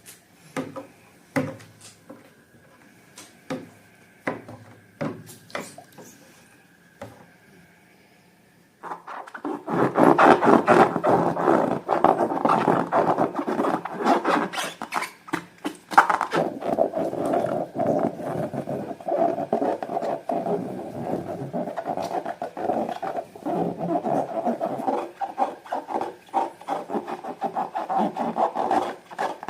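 Slime being squished and worked by hand. First come scattered sticky pops and clicks, then about nine seconds in a dense, continuous crackling squelch as it is kneaded and stirred harder.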